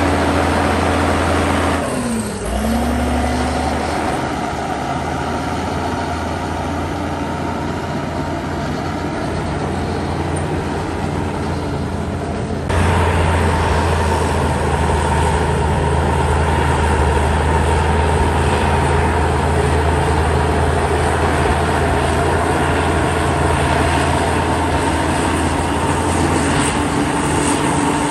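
Heavy diesel engine of earthmoving machinery running steadily. Its note dips sharply and recovers about two seconds in. About halfway through it suddenly becomes louder and deeper.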